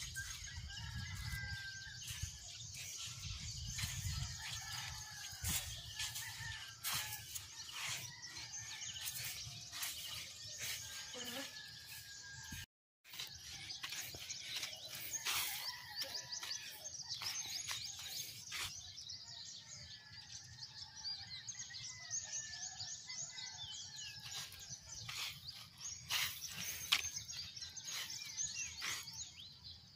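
Small birds chirping and twittering in a dawn chorus, with a low rumble fading out in the first few seconds and a brief break in the sound about halfway.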